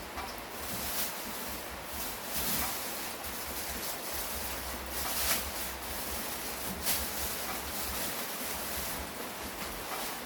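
Steady rain falling, a continuous hiss with several brief louder swells.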